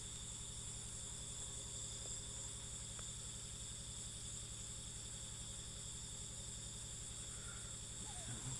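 Night chorus of crickets and other insects: a steady, high-pitched trilling throughout.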